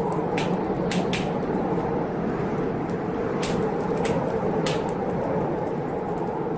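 Fireplace wood fire crackling, with several sharp, irregularly spaced snaps over a steady rushing storm noise.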